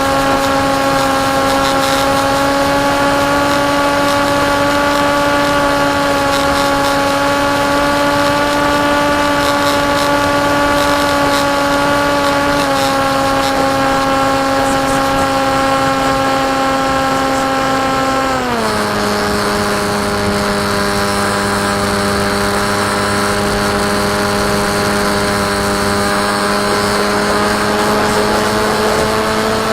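Electric motor and propeller of a KT Wing flying-wing FPV plane in flight, a steady pitched drone. The pitch steps down slightly about twelve seconds in and drops further about eighteen seconds in as the motor slows, then creeps back up a little near the end.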